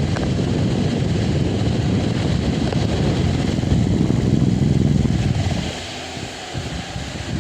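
Delta Gold 50 cm electric fan running, its airflow buffeting the microphone with a loud, low rumble that eases off about six seconds in.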